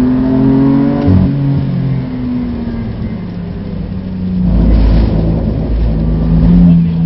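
BMW F80 M3's twin-turbo straight-six heard from inside the cabin. It runs at speed, drops at a gear change about a second in, then eases off as the car slows. From around four and a half seconds a loud low rumble comes in, and the engine pulls again with the revs climbing near the end.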